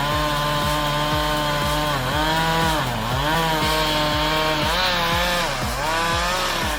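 Chainsaw running at high revs, its engine note sagging twice under load and picking back up.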